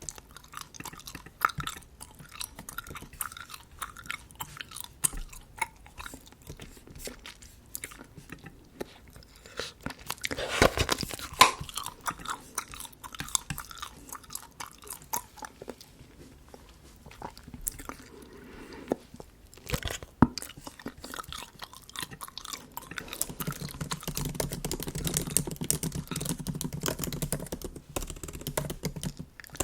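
Bubble gum chewed close to the microphone: small, sticky, wet clicks and smacks at an uneven pace, with a louder cluster about ten to eleven seconds in and denser chewing near the end.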